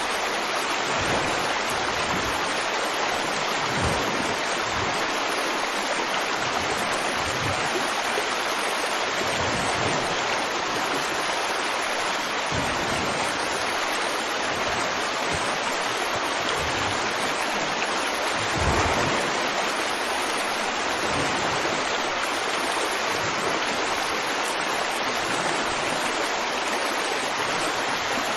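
River water flowing over rocks, a steady rushing babble with occasional brief low gurgles.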